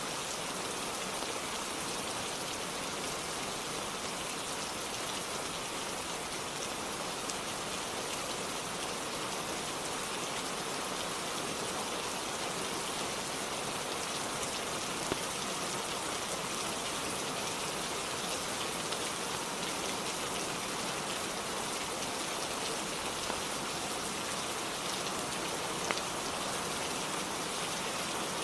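Steady rainfall, an even patter of rain on a surface that does not change, with a few isolated sharp ticks.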